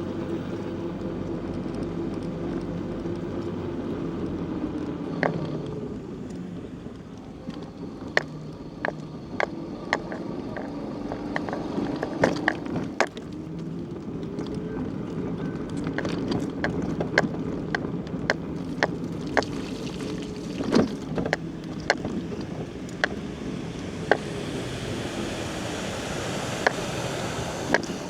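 Bicycle rolling along a rough country road, with many sharp clicks and rattles over bumps. A motor's steady hum is heard in the first few seconds and then fades.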